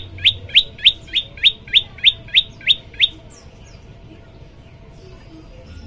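Prenjak lumut song: a string of about ten sharp, rising chirps, about three a second, that stops about three seconds in.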